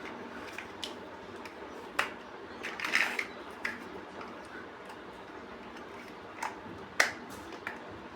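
Plastic building bricks being handled and snapped together: scattered sharp clicks, a small cluster about three seconds in and the loudest click near the end, over a steady low hiss.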